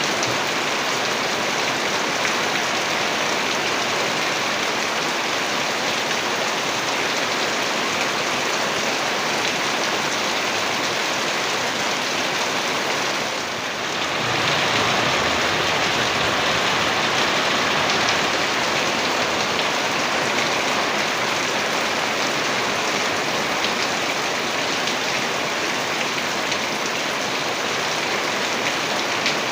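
Heavy rain pouring steadily. It dips briefly about halfway through, then comes back a little louder.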